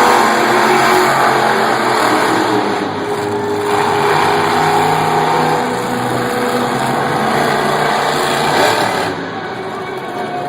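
Monster truck engines running loud and revving, the pitch rising and falling, easing off a little near the end.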